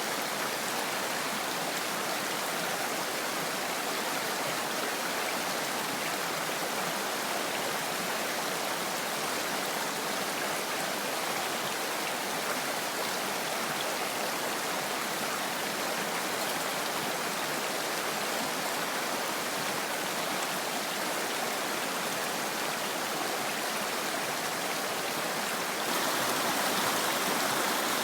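Mountain stream flowing, a steady rush of water; about two seconds before the end it turns a little louder.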